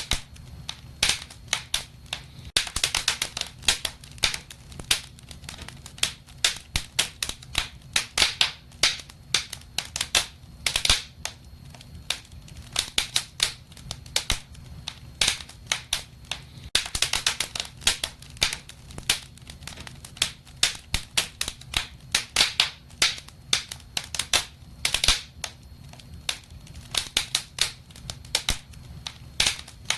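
Wood fire in a fireplace crackling, with dense, irregular sharp pops and snaps over a steady low hum.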